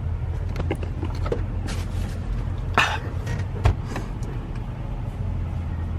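Semi truck's diesel engine running with a steady low rumble heard inside the cab. A few clicks and knocks sound over it, the sharpest about three seconds in and another just after.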